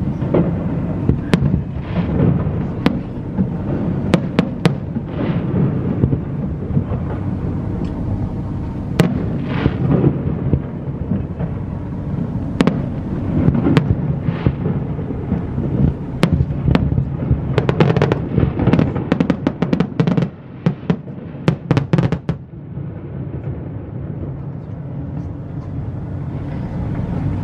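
Fireworks display: repeated sharp bangs of bursting shells mixed with rising whistles. It builds to a dense run of rapid cracking reports about two-thirds of the way through. The bangs then stop, leaving a steady low rumble.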